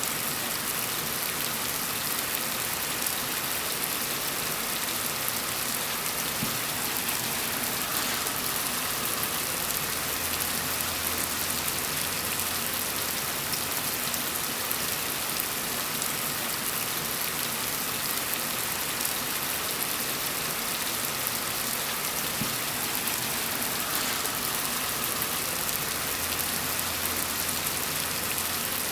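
Steady gentle rain falling as an even hiss, with a faint low rumble under it through the middle stretch and again near the end.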